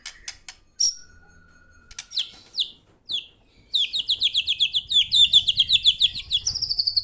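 Murai (a Copsychus songbird) singing: a few scattered whistles, clicks and falling notes at first, then, about halfway through, a fast loud run of sharp repeated notes, several a second.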